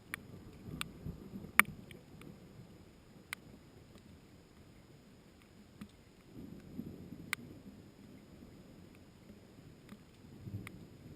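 Scattered raindrops tapping sharply near the microphone, one tap a little over a second in the loudest, over low rumbling swells that rise and fade three times.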